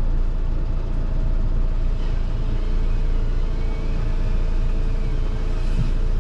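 Diesel engine of a forestry machine running steadily: a constant low rumble with a faint steady whine over it.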